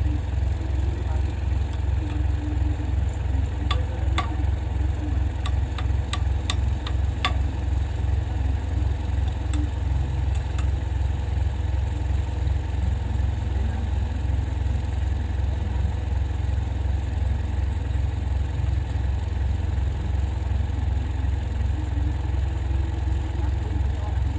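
Heavy diesel earth-moving machinery running steadily with a deep, evenly pulsing engine drone. A few sharp metallic clicks come between about four and seven seconds in.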